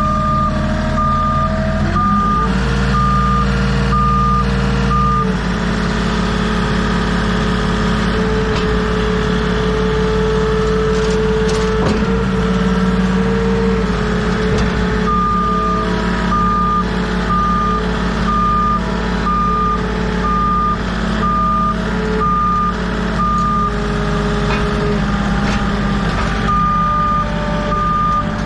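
Vehicle backup alarm beeping about once a second over a running engine. The beeping stops about five seconds in and starts again about fifteen seconds in, while the engine keeps running and changes pitch.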